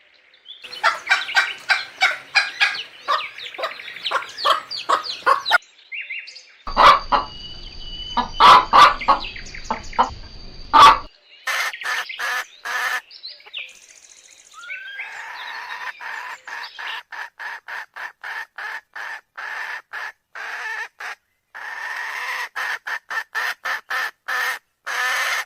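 Hens clucking and calling in quick runs of short notes, across several spliced clips that change abruptly.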